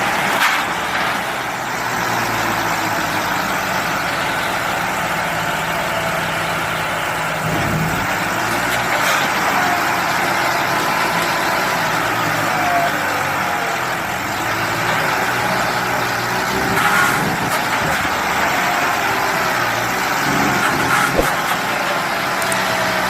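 John Deere 5310 tractors' diesel engines running steadily under load, pulling against each other in a tug-of-war.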